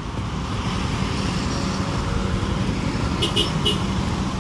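Wind buffeting on a helmet-mounted phone mic over a Honda RS125 FI motorcycle's engine running in traffic, with a steady low hum under the rumble. Three short high beeps come about three seconds in.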